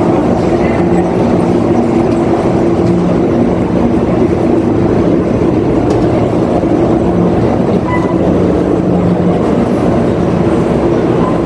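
Tea-processing machinery running in the factory: a loud, steady mechanical din with a constant low hum and rattle.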